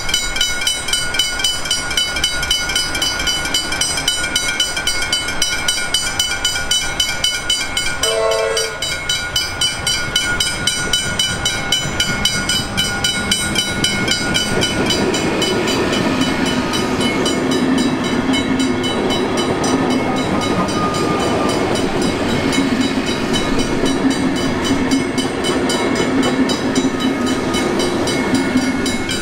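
Train passing a level crossing, with the crossing bells ringing fast and steadily throughout. A short horn note sounds about eight seconds in, and from about halfway the train's rumble grows louder and stays up.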